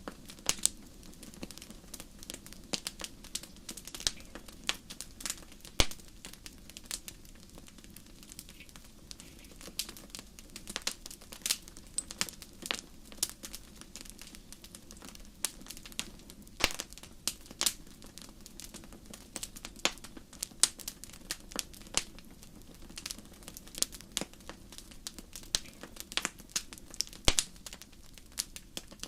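Wood fire burning in a fireplace: irregular sharp crackles and pops over a low, steady rumble of the flames, with a few louder pops.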